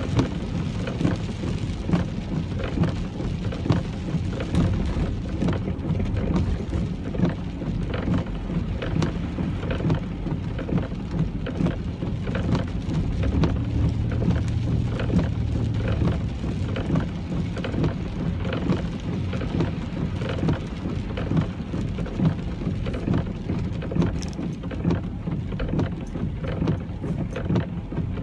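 Rain striking a car as it drives: many sharp drop hits over a steady low rumble of the car on the road.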